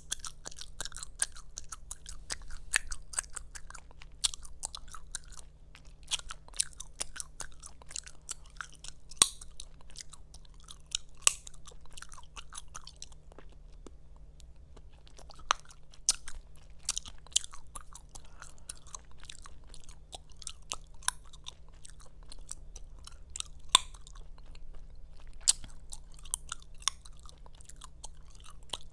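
Gum chewed close to the microphone: wet, irregular smacking clicks of mouth and gum, with occasional sharper, louder snaps and pops, and a short lull about halfway through.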